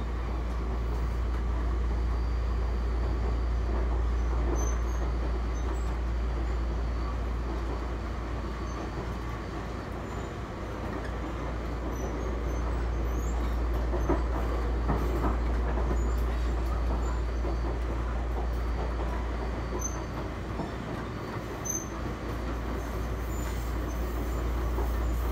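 Running noise of the Toyama Chihō Railway 20020 series (ex-Seibu New Red Arrow) electric train heard inside the passenger car: a steady, heavy low rumble that swells and eases, with a few short knocks a little past the middle. The car runs on bogies and motors reused from the original Seibu Red Arrow, which are known for their loud running noise and rough ride.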